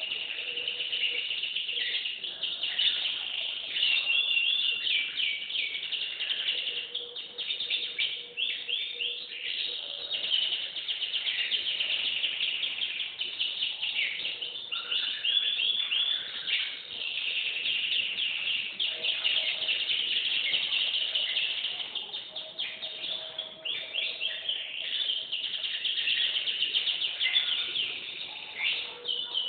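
A canary singing continuously: long runs of fast, high trills and repeated chirped phrases, with hardly a break.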